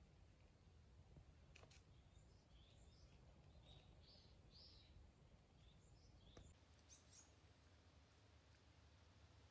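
Near silence: faint outdoor ambience with a few short, distant bird chirps in the middle and a couple of soft clicks.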